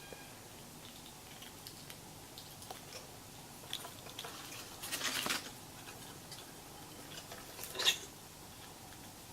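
A green-cheeked conure clicking and tapping at a plastic water-bottle cap with its beak, in scattered small clicks. There is a longer scraping rattle about five seconds in and a sharp click just before eight seconds, the loudest.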